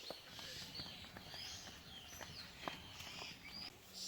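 Birds chirping faintly in short repeated calls, with a few light clicks and taps scattered through.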